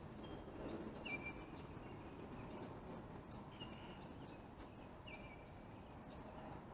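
Faint birdsong over quiet outdoor background noise: a bird gives several short, high whistled calls a second or so apart.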